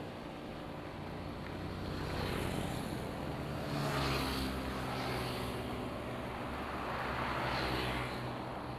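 Road traffic: motor vehicles passing close by, their engine hum and tyre noise swelling and fading a few times, once near the middle and again near the end.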